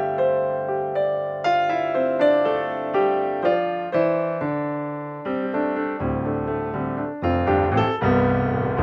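Background piano music: a gentle melody of single notes and chords, each note struck and fading.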